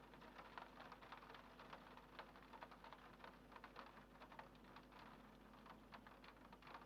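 Rain on a window pane: quiet, irregular light taps of drops over a soft hiss, with a faint steady hum underneath.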